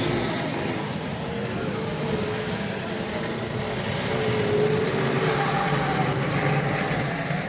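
Tri-ang OO-gauge model locomotive running on the track: a steady low motor hum and wheel rumble, with a thin whine that wavers in pitch as it goes.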